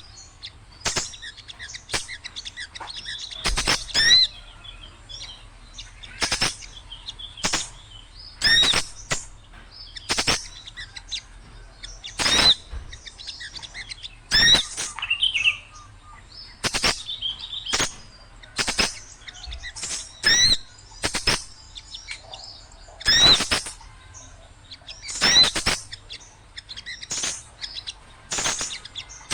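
Small songbirds calling noisily in a bird-lure recording: short, sharp, high chirps repeat every second or two, with a few quick warbled calls between them.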